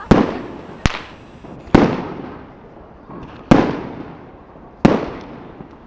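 Aerial firework shells bursting: five sharp bangs spaced irregularly about one to two seconds apart, each trailing off in echo.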